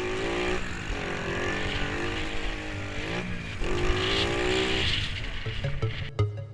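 Pit bike's small single-cylinder engine revving hard: its pitch climbs, drops back twice and climbs again. A beat of electronic music cuts in near the end.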